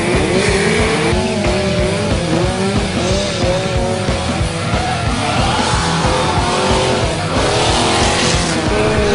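Engines revving up and down, with tire squeal, over music with a steady beat.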